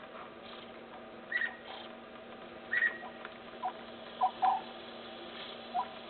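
Bird calls: short, high notes repeated about every second and a half, then a few shorter, lower notes in the second half, over a faint steady hum.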